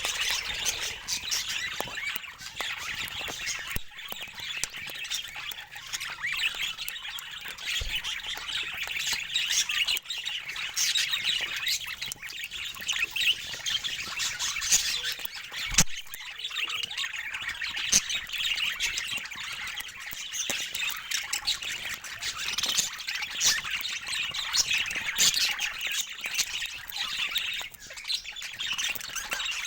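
Several budgerigars chattering without a break: a dense stream of scratchy warbles, chirps and squawks, with a few short knocks in between.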